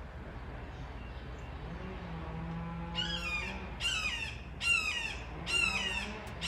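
A bird of prey calling loudly: a series of about five harsh, downward-sliding screams, roughly one a second, beginning about three seconds in.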